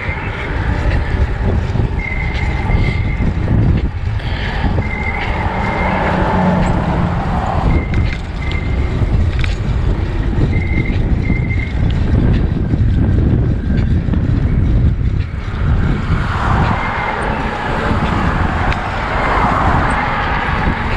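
Wind buffeting the microphone on a bicycle ride into a headwind: a loud, steady rush. A short, high, steady tone recurs every second or few in the first half.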